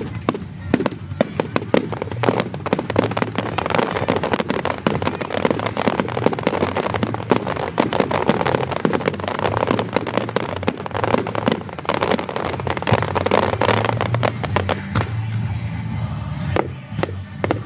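Fireworks display: a dense, rapid run of bangs and crackles that thins to a few scattered bangs near the end.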